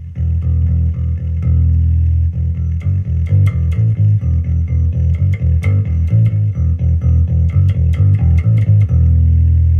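Electric bass played through an Origin Effects DCX Bass pedal: a run of quick plucked notes, then a held note near the end. Sharp crackles break in here and there, a noise the owner puts down probably to a faulty solder joint in the pedal.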